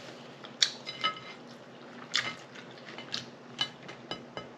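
Close-miked eating: wet chewing and lip-smacking clicks, with a few light clinks of cutlery on a plate that ring briefly.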